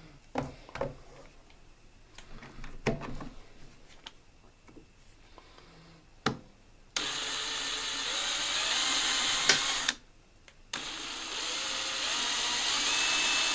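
A few handling clicks and knocks, then about seven seconds in a power drill with a 3/32-inch bit runs, boring a hole in the mini lathe's thin casing. It stops briefly at about ten seconds and starts again, its whine rising slightly.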